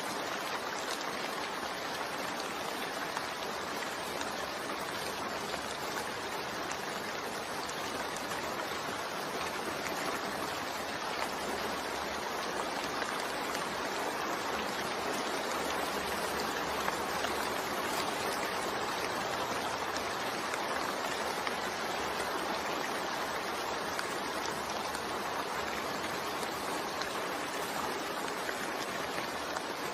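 Steady, continuous rain mixed with white noise, an even hiss with no breaks or single drops standing out.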